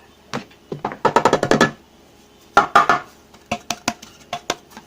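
Cake tray being tapped and shaken to spread a dusting of flour over its greased inside: two quick runs of rapid taps with a ringing tone, then several single taps.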